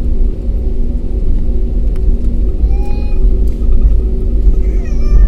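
Loud, steady low rumble of an airliner's engines and airframe heard inside the passenger cabin during take-off, with a constant hum in it.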